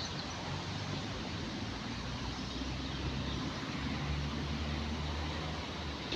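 Steady outdoor background noise with a low vehicle rumble, strongest in the middle; no bird calls.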